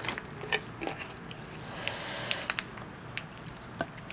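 Close-miked chewing of potato chips on a clip-on lavalier mic: scattered soft crunches and wet mouth clicks, with a short hiss near the middle.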